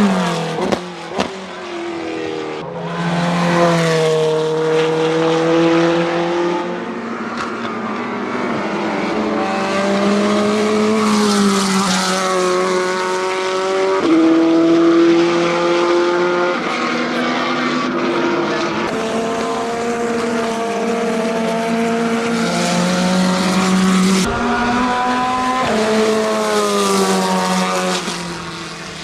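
Race car engine running hard on track, its pitch climbing and falling with sudden jumps as the gears change.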